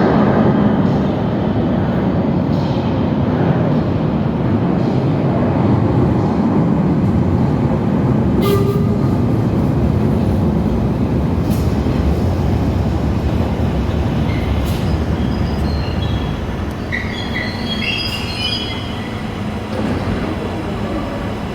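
London Underground Bakerloo line tube train running with a steady low rumble, and high-pitched wheel squeal a few seconds before the end.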